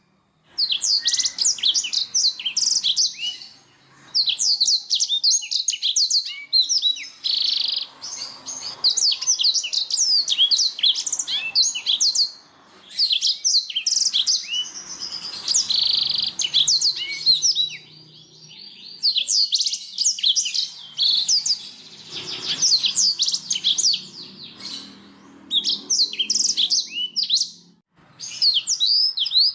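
Domestic canary singing: long phrases of rapid, high-pitched chirps and trills, broken by short pauses.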